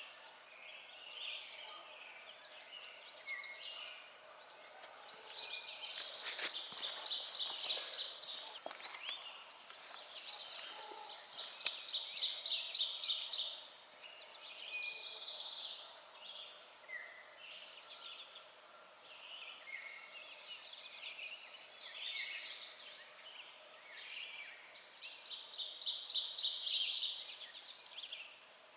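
Several songbirds singing over one another, with repeated high, rapid trills of about two seconds each and shorter chirping phrases.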